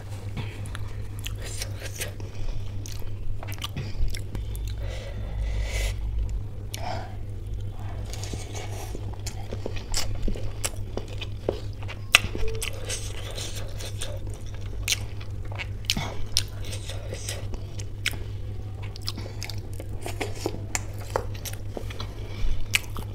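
Close-miked chewing of soft, wet samosa chaat with ghugni: moist mouth sounds with many small smacks and clicks, and now and then a soft crunch of pastry. A steady low hum runs underneath.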